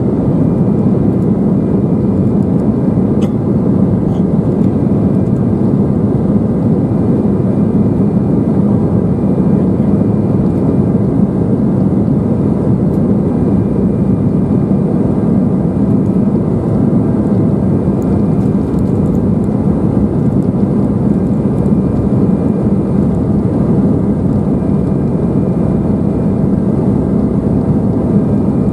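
Steady cabin roar inside an Embraer 175 airliner during the climb: the drone of its two General Electric CF34-8E turbofans and the rush of air, even and unchanging, with a faint steady high whine above it.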